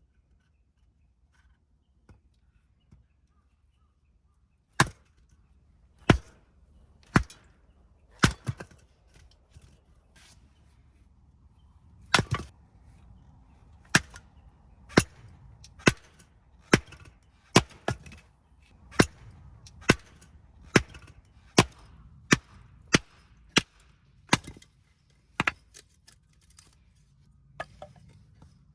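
Repeated sharp single blows, as from hammering or chopping, starting about five seconds in and then coming roughly once a second, some with a lighter second knock right after.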